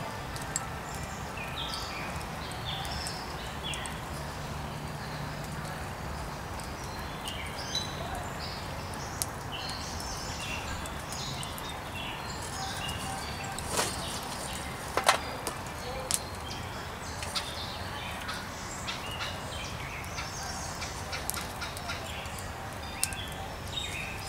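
Outdoor birdsong: many short, high chirps and calls over a steady low rumble, with a few sharp pops or clicks about halfway through.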